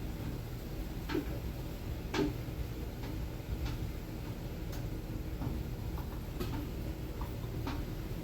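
Light, irregular ticks and clinks, roughly one a second, of a spoon knocking against a glass jar and pot as thick barbecue sauce is transferred into a jar, a few with a soft thud, over a steady low hum.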